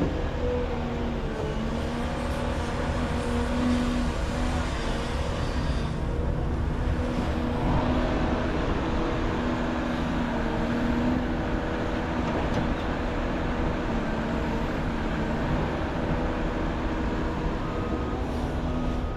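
Volvo EC550 excavator's diesel engine running steadily under working load, its pitch shifting slightly up and down as the machine digs.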